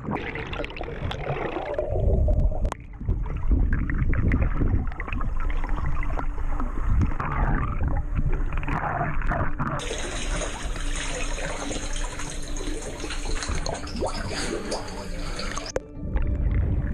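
Sea water splashing and gurgling around a swimmer in the water. The sound changes abruptly about two, ten and sixteen seconds in.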